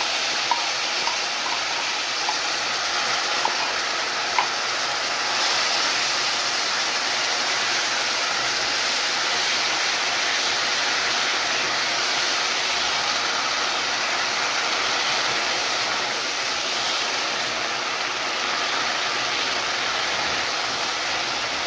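Onions, turmeric and coconut milk sizzling in a hot pot: a steady sizzle with a few light clicks in the first seconds, growing a little louder about five seconds in.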